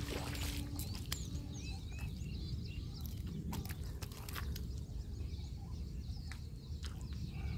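Birds chirping in short calls over a steady low rumble, with a few brief sharp clicks scattered through.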